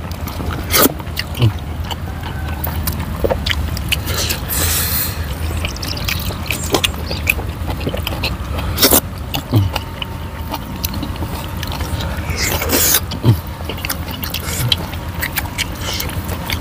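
Close-miked chewing and lip-smacking of people eating chicken and rice by hand, a string of short wet clicks over a steady low hum.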